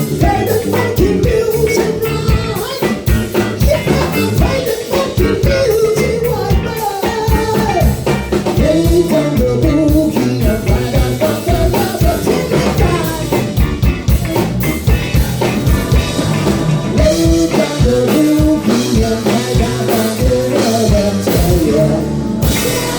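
Live band playing a funk-rock instrumental section, drum kit and bass keeping a steady beat under a wandering lead line; the texture changes sharply near the end.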